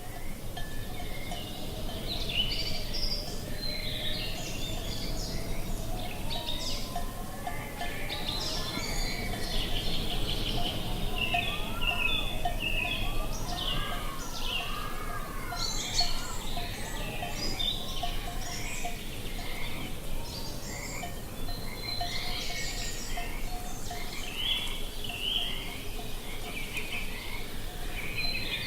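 Many birds chirping and trilling, with a few arching whistled calls in the middle, over a low even rush of wind.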